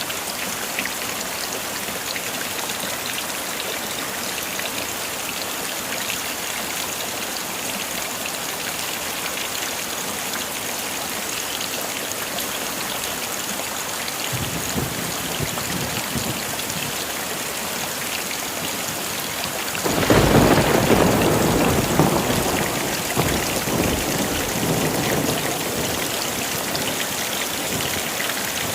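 Steady heavy rain. A low rumble of thunder begins about halfway through, then a louder roll of thunder breaks in about two-thirds of the way and slowly dies away.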